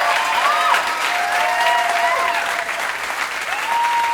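A large flock of American robins calling all at once: a dense, steady din of clicking chatter with many short whistled notes sliding up and down over it.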